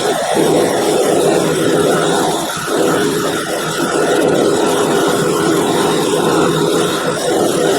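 Motor-driven wire wheel running steadily and scrubbing rust off a steel pipe wrench, the brushing noise dipping briefly a few times as the work is pressed in and eased off.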